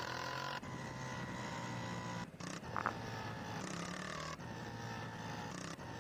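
Honda CG 160 Titan's single-cylinder engine, fitted with an open straight-pipe exhaust, running at low, steady revs with a few brief dips.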